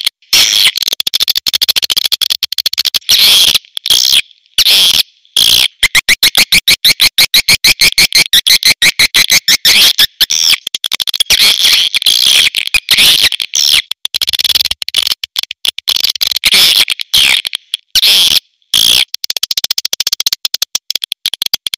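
Swiftlet lure call recording: fast trains of sharp, high chirps and clicks with short gaps, including a very even run of about eight to ten chirps a second about six seconds in. It is the kind of call sound played to draw swiftlets into a swiftlet house.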